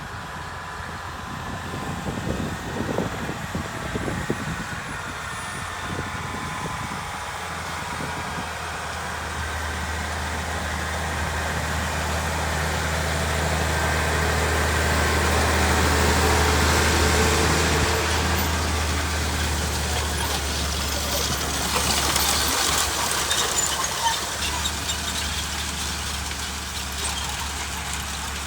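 Massey Ferguson 7619 tractor engine running steadily while pulling an air seed drill. It grows louder as the tractor comes closer, is loudest a little past halfway, then fades as it moves away.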